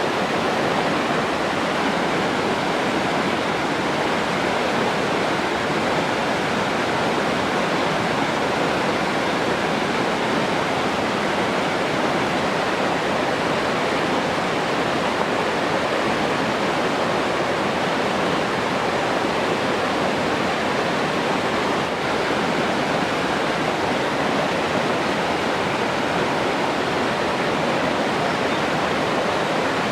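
Steady rushing water: an even, unbroken wash with no distinct splashes or changes.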